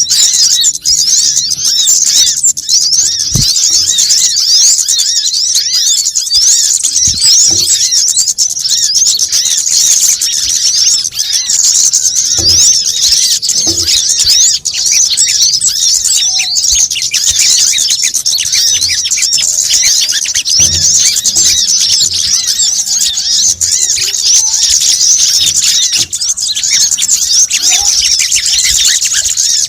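Dense, high-pitched twittering of many small birds, fast chirps overlapping without a break: a looped bird-lure recording played to call in sunbirds such as the brown-throated sunbird (kolibri kelapa).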